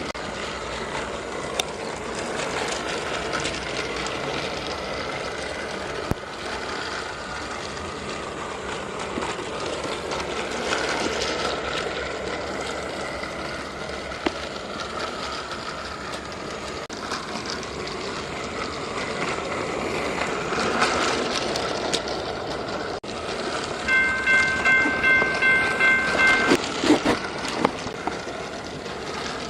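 Battery-powered toy train running steadily along plastic track, with scattered clicks, and a pulsing electronic horn tone sounding about three-quarters of the way through.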